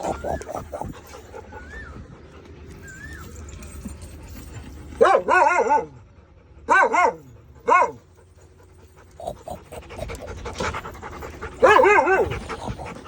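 A Labrador dog making weird whining, warbling vocalisations in short bursts, each call wavering up and down in pitch. They come about five seconds in, twice around seven seconds, and again near twelve seconds, with faint high squeaks in the first few seconds and panting in between.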